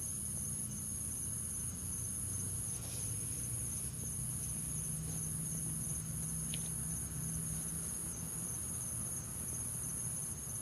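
Steady, high-pitched insect chirring, pulsing about once a second, with a second thin steady tone beneath it and a low rumble underneath.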